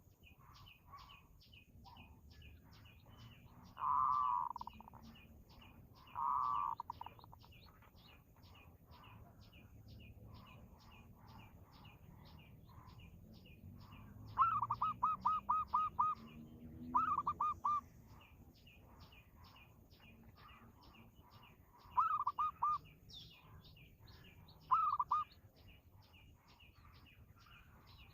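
Birds calling: a steady series of short high chirps, about three a second, with louder bursts of quick pulsed notes that come and go, the longest a rapid run about halfway through.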